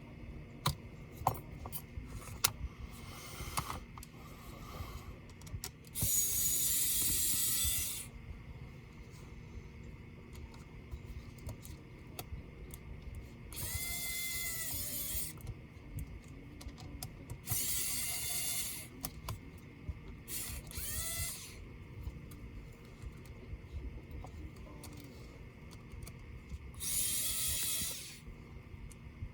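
Small electric screwdriver whirring in five short runs of a second or two, backing screws out of a laptop. Light clicks and taps of handling fall between the runs.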